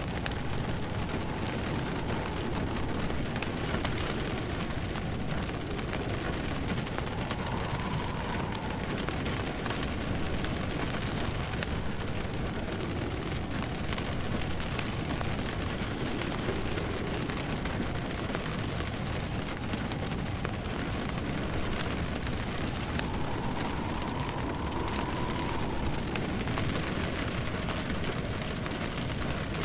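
Steady rain falling, with a wood fire crackling in a fireplace: an even hiss peppered with small sharp snaps.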